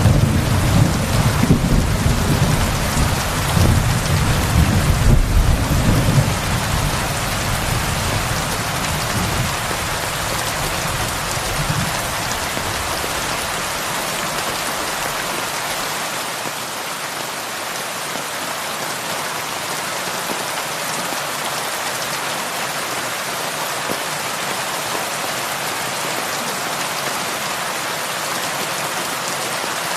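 Heavy rain falling steadily. A low rumble of thunder rolls through the first several seconds and dies away before the middle.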